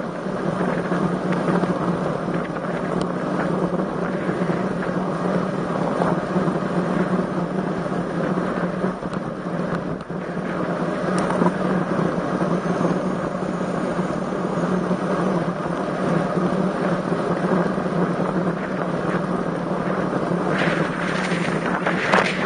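Steady wind rush on the microphone of a camera riding along on a road bicycle, a continuous noise that grows brighter and louder near the end.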